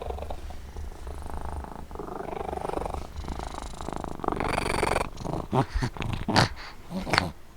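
A cat purring steadily right against the microphone, a low rapid rumble, with a few short scuffs and clicks in the last couple of seconds.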